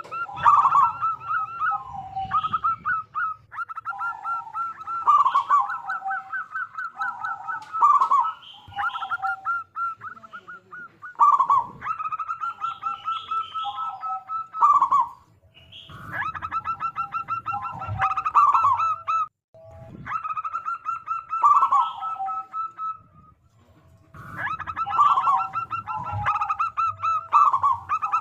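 Zebra dove (perkutut) song: phrases of quick, repeated short notes with lower coos mixed in, each phrase a few seconds long and separated by short pauses.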